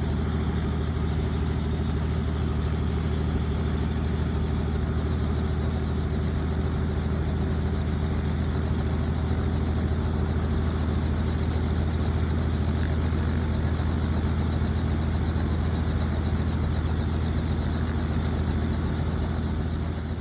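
Helicopter engine and rotor running: a steady, unbroken low drone with a faint high whine above it.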